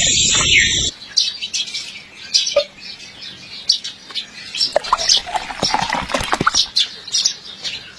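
A loud, dense sound cuts off abruptly about a second in, leaving birds chirping in short, scattered calls with a few light clicks.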